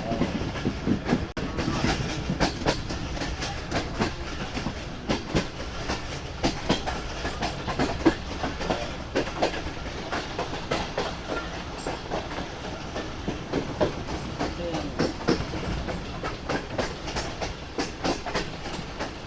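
Passenger train running along the track: a steady low rumble with dense, irregular clacks and knocks from the wheels and coach.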